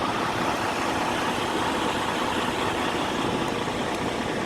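A 2014 Freightliner Cascadia Evolution semi-truck idling: a steady, even engine hum.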